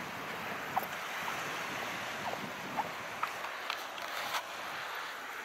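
Calm sea with small waves washing steadily, a constant hiss, and a scattering of short sharp splashes or ticks about a second in and again over the next few seconds.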